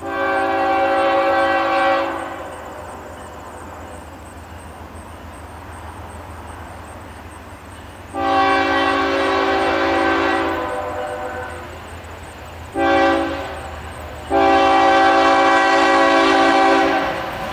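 Diesel freight locomotive's air horn blowing the grade-crossing signal: two long blasts, one short, then a final long one, each a chord of several steady tones. A steady low rumble of the train runs underneath.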